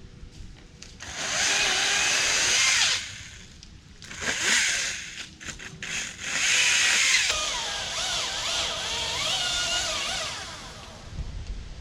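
Husqvarna T540iXP battery top-handle chainsaw cutting wood in three bursts, the longest near the end. Its electric whine wavers up and down in pitch as the chain takes the load.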